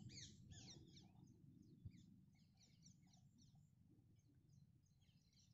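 Faint small birds chirping in quick, high twittering calls, busiest in the first second and then scattered, over a low background hush.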